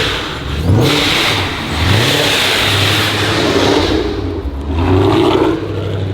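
Car engine revved hard several times, quick blips rising in pitch, then held high for a couple of seconds before another rev near the end.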